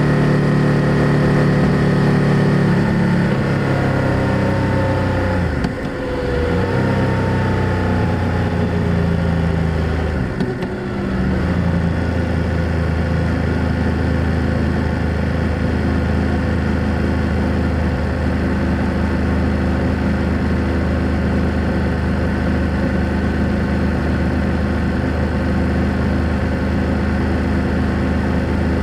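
BMW F 800 GS parallel-twin motorcycle engine and exhaust at close range. The revs fall over the first several seconds, with two short dips in level about six and ten and a half seconds in. It then runs steadily at a lower pitch.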